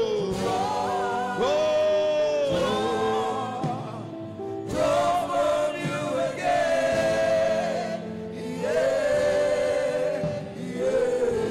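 Slow gospel worship song sung by voices in long held notes with vibrato, phrase after phrase with short breaks between.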